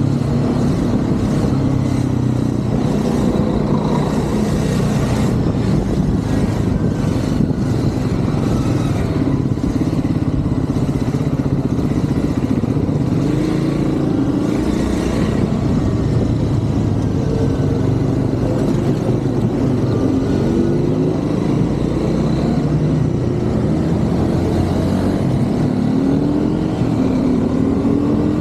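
Triumph Scrambler 400 X's single-cylinder engine running while riding in city traffic, its pitch rising and falling as the rider speeds up and slows.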